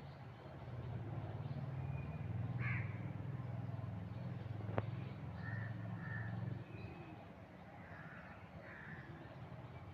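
Crows cawing several times in short harsh calls, over a low rumble that fades out about two thirds of the way through, with one sharp click near the middle.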